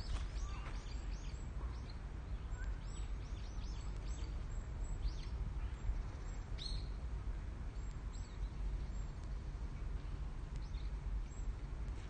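Birds chirping: many short, high chirps, each dropping quickly in pitch, come one after another over a low steady rumble.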